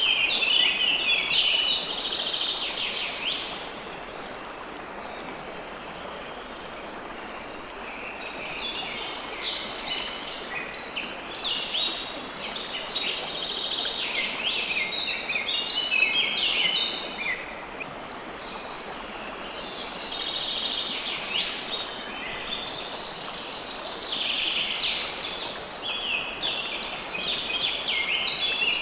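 River water flowing steadily with songbirds chirping in quick trilling phrases over it. The birds sing for the first few seconds, fall silent for about four seconds, then sing almost continuously from about eight seconds in, with a short pause near eighteen seconds.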